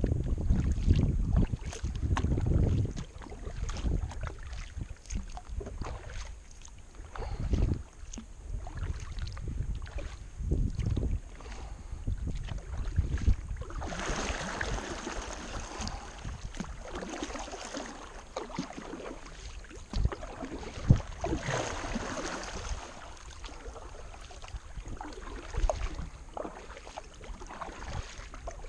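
Kayak being paddled: paddle blades dipping and splashing in the river water, with wind buffeting the microphone in the first few seconds.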